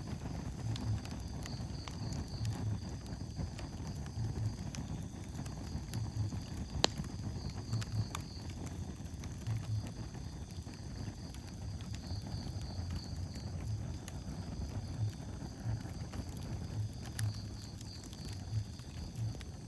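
Wood fire burning in a fireplace: a low steady rumble with scattered sharp crackles and pops, the loudest about seven seconds in.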